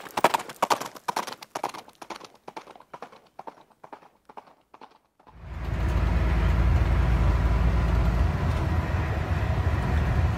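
A run of sharp, irregular clicks and knocks that slow and thin out over about five seconds. A steady low diesel truck engine and road rumble heard inside the International 9800i's cab then cuts in abruptly.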